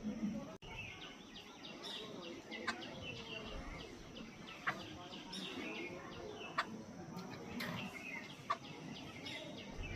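Jungle babblers calling in short, harsh chattering notes, with a sharp click about every two seconds.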